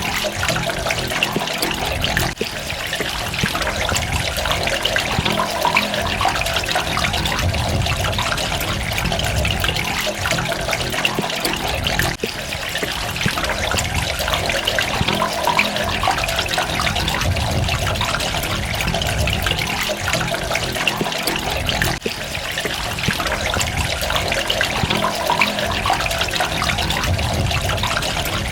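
Water running and splashing steadily in a dense, even trickle, with a brief dip in loudness about every ten seconds.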